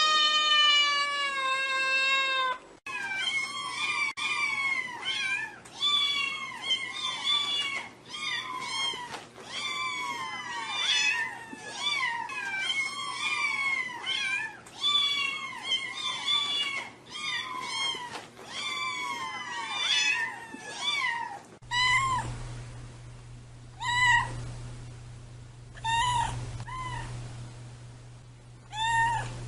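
Cats meowing: one long drawn-out meow, then a fast run of short, high, rising-and-falling mews, several a second, like kittens calling. From about 22 s in a steady low hum comes in and the mews thin out to single calls every second or two.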